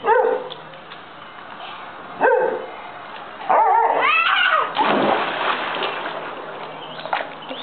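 Dog barking and yipping excitedly a few times, the calls bending up and down in pitch, followed by a stretch of water splashing in a pool.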